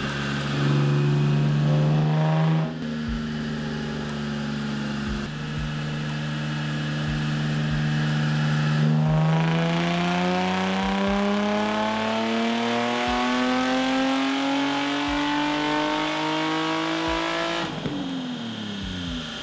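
Supercharged Nissan 350Z V6 on a chassis dyno, running at steady revs in gear. About nine seconds in, a full-throttle power run starts and the revs climb smoothly for some eight seconds. Near the end the throttle closes and the revs fall away quickly.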